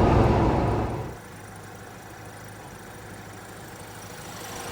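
Road and engine noise inside the cab of a 1980 Toyota pickup with a 20R engine, driving at highway speed. It cuts off about a second in, leaving a much quieter, steady low hum.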